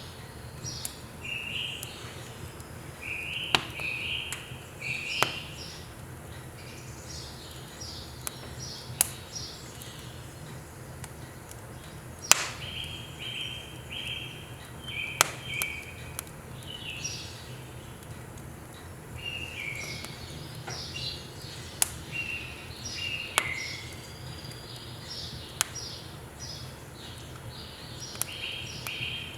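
Wood fire crackling in a wood-burning stove, with sharp single pops every second or few, while birds sing short, repeated chirping phrases over a steady low rumble.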